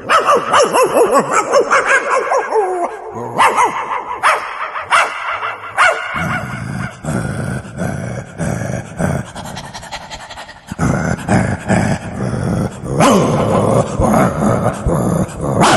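A man imitating a dog with his voice: quick high yelps and whimpers for the first few seconds, then lower, rough growls and barks.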